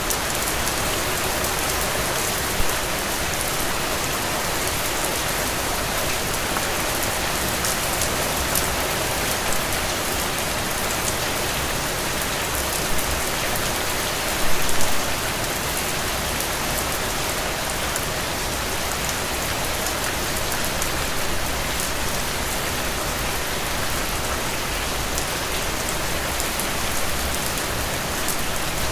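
Heavy, steady rain falling on the ground and into puddles, an even hiss of countless drops with the odd louder splash, a brief cluster of them about halfway through.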